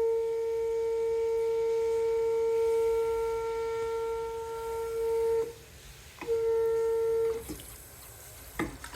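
Water pipes under a sink whining with a steady, pure-sounding tone, a sign of water flowing elsewhere in the house's plumbing, such as another faucet or the sprinklers. The whine cuts off about five and a half seconds in, comes back for about a second, then stops. A click follows near the end.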